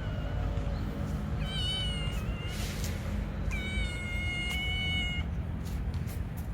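Stray cat meowing twice, the second meow longer and held steady at one pitch.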